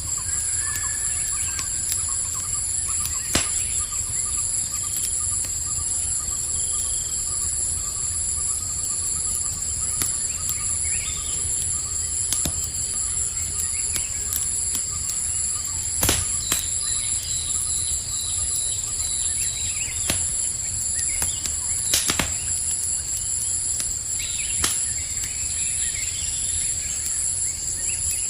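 Campfire crackling, with a handful of sharp pops from the burning wood, over a steady high-pitched chorus of night insects.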